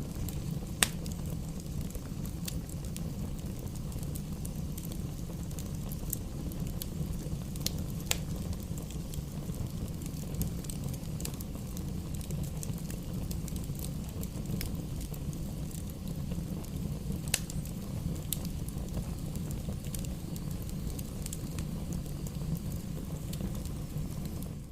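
Wood campfire burning, with a steady low rumble and scattered sharp crackles and pops. The loudest pop comes about a second in.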